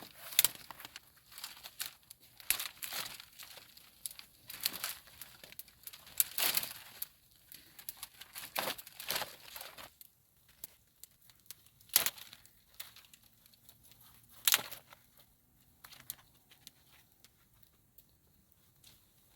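Irregular crinkling, rustling and tearing sounds of dry material being handled, busy for the first ten seconds and then sparser, with two sharp snaps about twelve and fourteen and a half seconds in.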